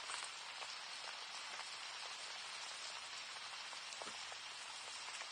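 Steady rain falling, an even hiss with a few faint, separate drop ticks.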